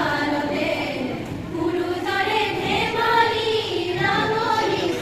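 A group of voices singing a slow song together in one melody, each note held for about a second.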